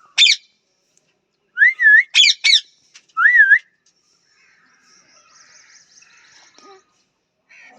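Pet parrot calling: a sharp screech just after the start, then a quick run of harsh screeches and two wavy, rising-and-falling whistles between about one and a half and three and a half seconds in, followed by soft, quiet chatter that stops near the end.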